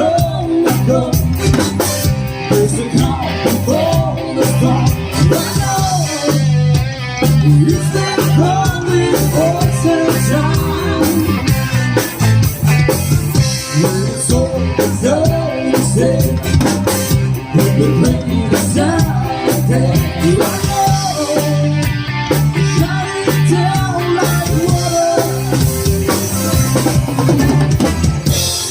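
Live rock band playing an up-tempo number on drum kit, bass and guitar, with a wavering lead line over a steady pulsing beat.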